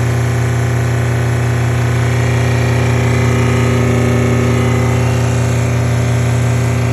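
Canpump pressure washer running with a steady, loud hum. It has an extended hose fitted, and its owner says the noise is not normal.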